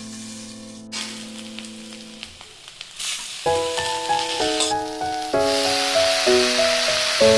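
Potatoes frying in oil in a pan, the sizzle growing much louder from about halfway as chopped pumpkin leaves are tipped in. Background music plays throughout, held notes at first, then a plinking melody from about halfway.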